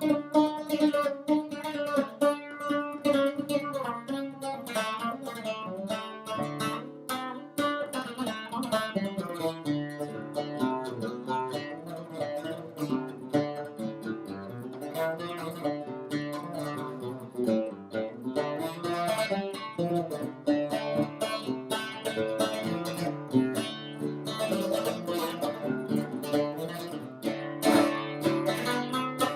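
Lavta, a fretted Greek lute played with a plectrum, improvising solo: quick runs of picked notes over a recurring low bass note.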